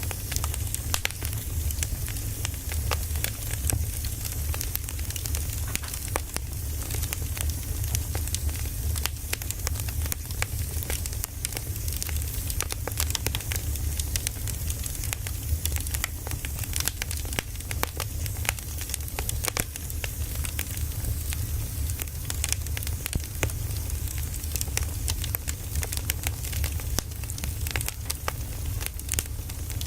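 Firewood burning, with frequent irregular crackles and pops over a low steady rumble.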